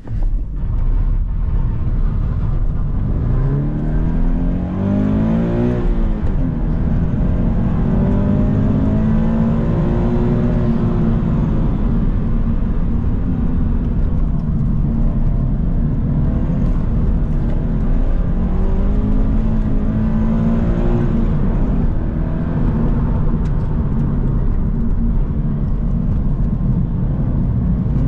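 Subaru BRZ's flat-four boxer engine heard from inside the cabin, revving up through the gears several times and easing off between pulls, over steady road and tyre noise.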